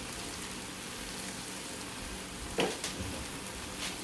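Steady sizzling hiss of food frying in hot oil, with a sharp clink about two and a half seconds in and a couple of fainter ticks after it.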